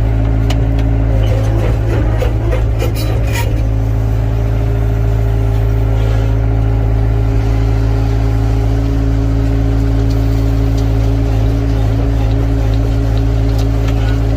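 Excavator's diesel engine running steadily under work, with a cluster of clanks and knocks during the first few seconds and one more near the end, typical of the bucket and hydraulics striking and scraping earth and stone.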